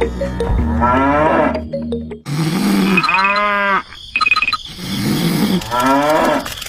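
Cows mooing three times, each a long call that rises and falls in pitch, with music behind.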